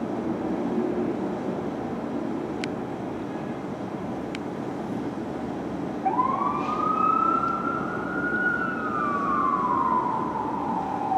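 Steady road and engine noise, then about six seconds in a fire engine's siren starts a wail: the tone climbs quickly, holds, then falls slowly.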